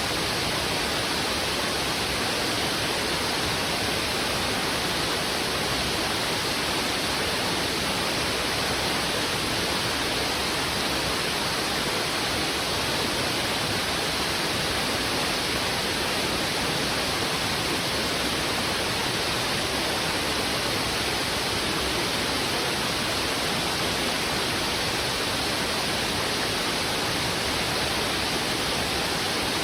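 Fast-flowing river rushing over rocks: a steady, dense rush of water with no breaks or changes.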